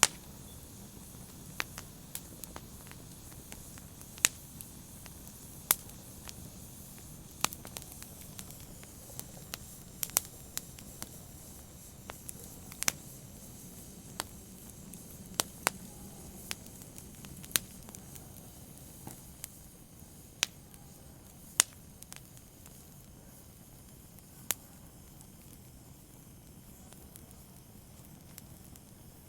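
Wood fire burning with a soft steady hiss and sharp, irregular crackles and pops, fewer of them in the last few seconds.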